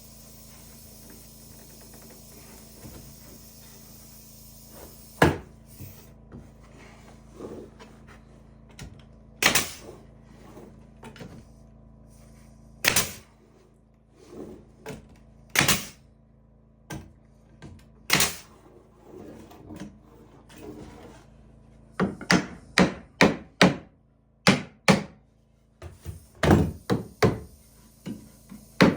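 Sharp knocks and thunks on wood: single strikes a few seconds apart, then quick runs of several knocks in a row near the end.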